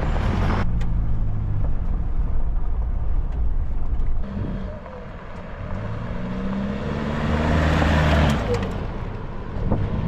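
Truck engine running while driving, with tyre and road noise. About halfway through it eases off, then climbs in pitch and loudness as it accelerates before easing again near the end.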